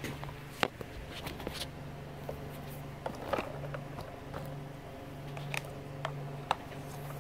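Hard plastic toy airplane parts being handled and fitted together: scattered light clicks and knocks, a few of them sharper, over a steady low hum.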